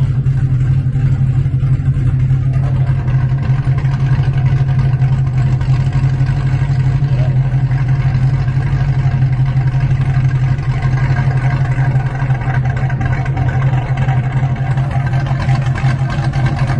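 Cadillac V engine and its freshly reworked exhaust idling steadily with an even, unchanging low hum and no revs.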